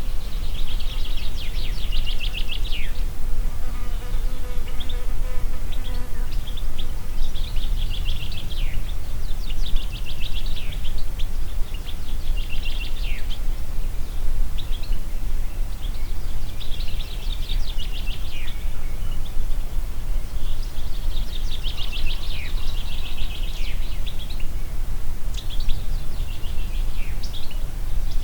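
Wind in a forest as a steady low rumble, with a songbird singing quick trilled phrases that repeat every two or three seconds. A low buzz sounds for about two seconds around four seconds in.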